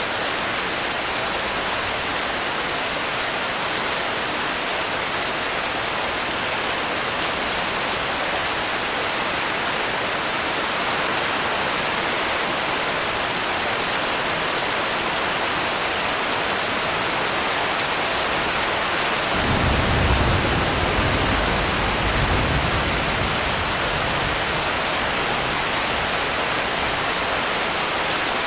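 Steady rain falling. A low rumble of thunder swells about two-thirds of the way in, peaking twice before fading back into the rain.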